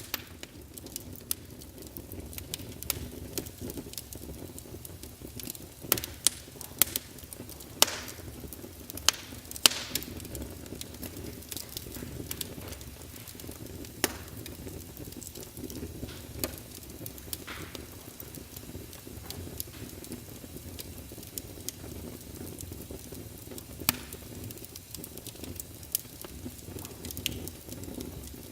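Wood fire burning in a fireplace, the logs crackling: a steady low rumble of flame with sharp pops scattered through it, coming thickest for a few seconds in the middle.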